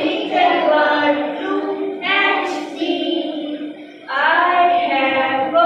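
A woman singing an English children's rhyme about a little bird and a bird house, in drawn-out sung phrases with a short break about four seconds in.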